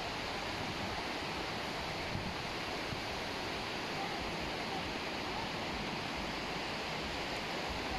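Surf washing steadily onto a beach, an even rushing noise with no distinct breaks.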